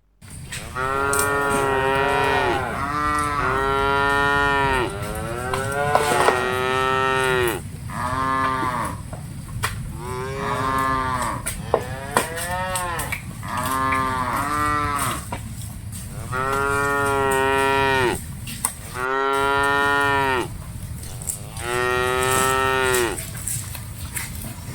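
A herd of cattle mooing over and over, about a dozen long calls one after another, over a steady low rumble.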